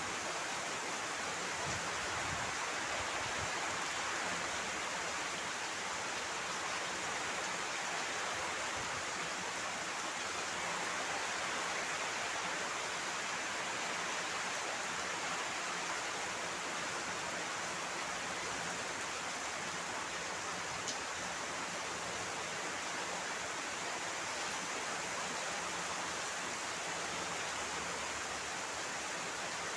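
Heavy rain falling in a steady downpour, an even hiss with no let-up. A single small click sounds about two-thirds of the way through.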